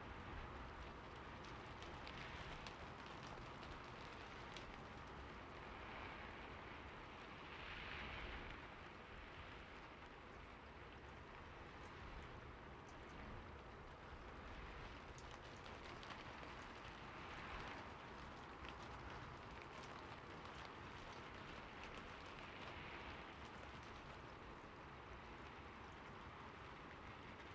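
Rain falling on a roof: a steady, faint hiss with many individual drops ticking and a few gentle swells in intensity.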